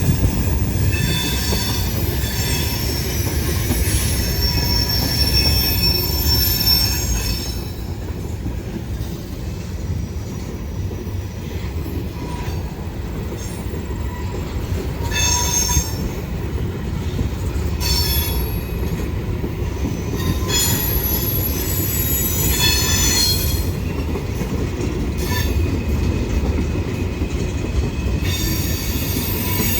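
Freight train cars rolling past with a steady low rumble, their wheels squealing high-pitched on and off, strongest in the first several seconds and again in short bursts later.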